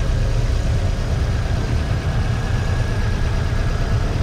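1996 Toyota Corolla's 1.8L four-cylinder 7A-FE engine idling steadily with a hard misfire on cylinder 1. The misfire comes from secondary spark leaking off a bad spark plug wire and burning to the valve cover bolt.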